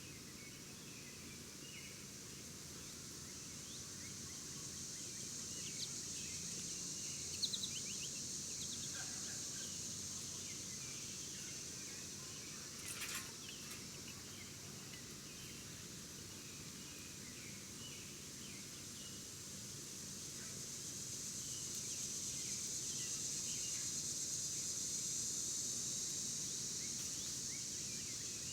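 Outdoor ambience: a steady high-pitched insect drone that swells and fades, with scattered short bird chirps. A couple of sharp clicks come about seven seconds in, and a brief rustle about halfway through.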